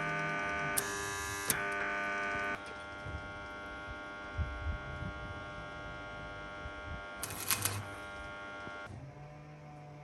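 Steady electric buzzing hum, rich in overtones, like a mains-powered device or motor running. It drops in level about two and a half seconds in and cuts off near the end, with a few brief knocks and rasps along the way.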